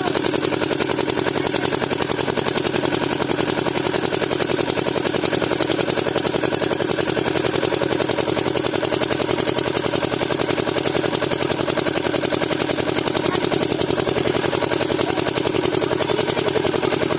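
Diesel water-pump engine running at a steady speed, its exhaust beating in a rapid, even rhythm.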